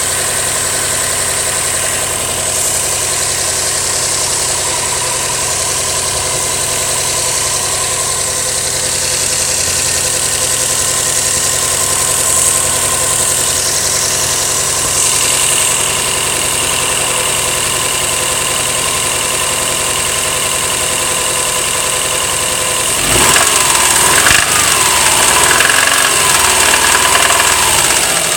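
2008 Subaru Legacy GT's turbocharged flat-four engine idling steadily, then revved up and down several times near the end. The owner suspects a noise in it may be rod knock, but is not sure.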